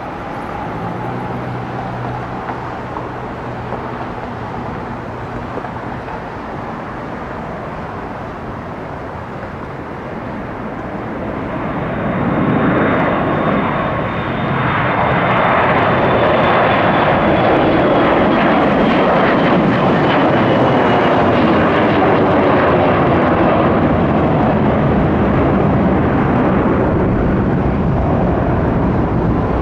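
Jet airliner's engines at takeoff power as it departs past, swelling loud about twelve seconds in, with a high fan whine that slowly falls in pitch as it goes by.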